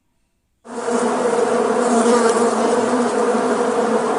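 Bees buzzing steadily, starting abruptly about two-thirds of a second in.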